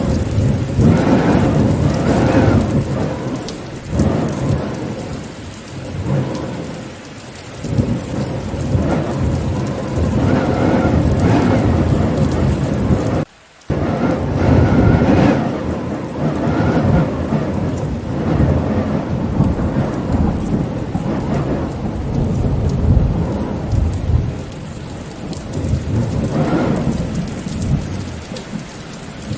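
Steady heavy rain with deep rolling thunder rumbling in long swells that rise and fade. Around the middle the whole sound cuts out for about half a second, then comes straight back.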